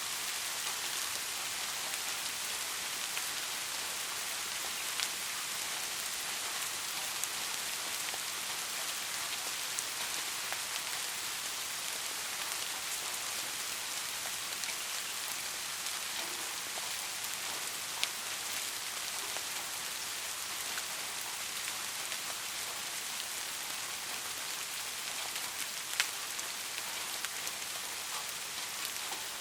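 Steady rain falling, an even hiss with scattered individual drops ticking, a few sharper ones standing out about 5, 18 and 26 seconds in.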